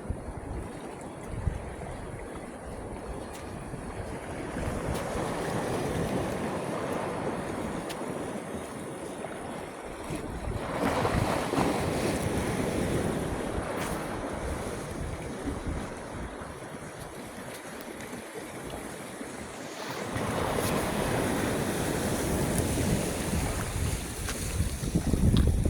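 Sea waves washing ashore: a steady hiss of surf that swells three times, about five seconds in, near eleven seconds and again past twenty seconds, over a low rumble.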